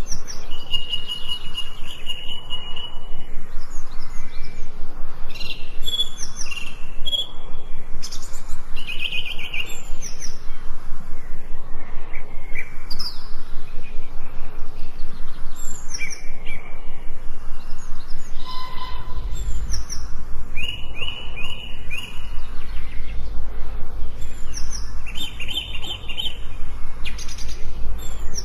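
Several wild birds singing and chirping, their calls overlapping: quick whistled notes, falling chirps and a few rapid trills. A low rumble sits underneath and grows louder about two-thirds of the way through.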